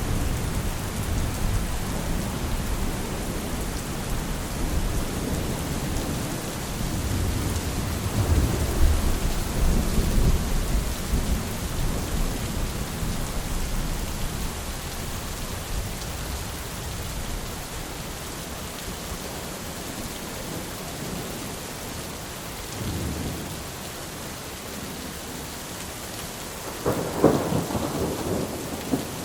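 Steady rain with rolling thunder. A long low rumble in the first half builds and then fades away, and a sharper, louder clap of thunder comes near the end.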